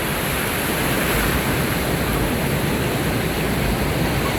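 Ocean waves washing on a beach, a steady, even rush of surf with no distinct breaks.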